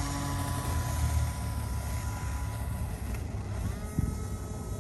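Small electric RC airplane's motor and propeller whining in flight over a low rumble. About three and a half seconds in, the whine steps up in pitch as the throttle is raised, and a short knock follows just after.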